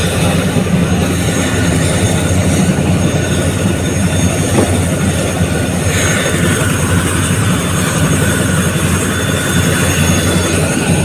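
Chinook helicopter running steadily, its rotors beating rapidly and loudly with a thin steady whine above.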